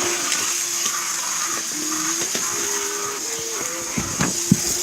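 Small electric motor of a toy train whirring as it runs along its track, its pitch shifting up and down in steps, with a few sharp knocks about four seconds in.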